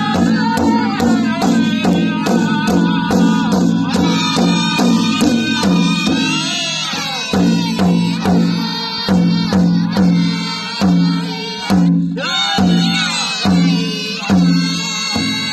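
Powwow drum group singing a song over a hand drum played in a steady beat, with high voices carrying the melody. The drumbeat is quicker at first, then slows to about two strong strikes a second about halfway through.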